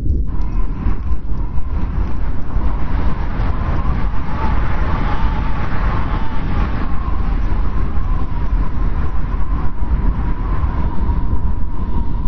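Strong wind blowing: a steady low rumble under a thin, whistling howl that swells a little in the middle.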